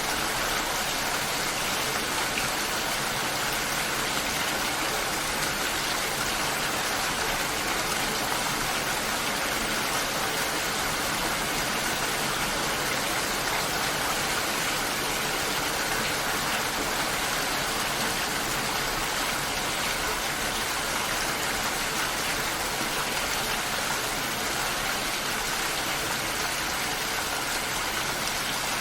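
Steady heavy rain, an even hiss of falling water without pauses or changes.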